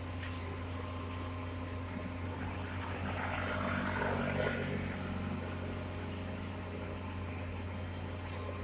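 Heavy diesel engine running steadily at a low, even hum, swelling louder for a couple of seconds about three to four seconds in, as when working under load.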